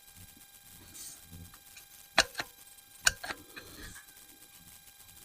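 Small metal hand tools clicking and clinking as they are handled: four sharp clicks in two pairs, about a second apart, past the middle.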